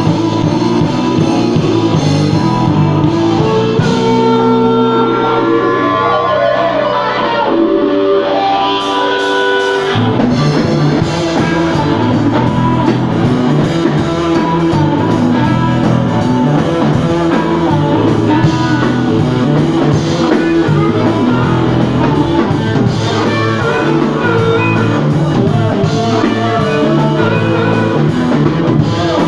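Blues-rock band playing an instrumental passage with electric guitar, bass and drums. From about four seconds in, held guitar notes with slides ring out, and about ten seconds in the full band settles into a steady driving rhythm.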